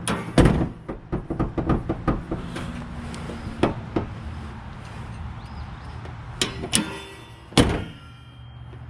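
Irregular metal clunks and clicks from the hood and its newly installed hood latch being worked, with one heavy knock just under half a second in and several more later on.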